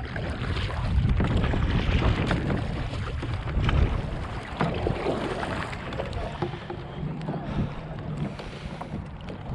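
Kayak paddle strokes splashing and dripping in lake water, with a few short knocks, while wind rumbles on the microphone.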